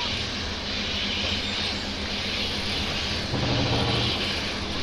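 Steady rumble of a slow-moving train from a dubbed railway soundscape, with a low droning tone lasting under a second about three seconds in.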